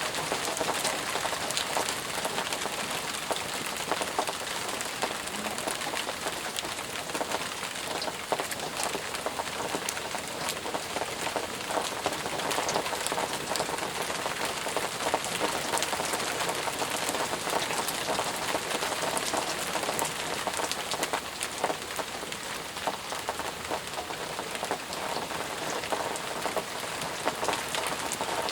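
Steady, heavy rain falling, with many close individual drops pattering on surfaces over a continuous hiss.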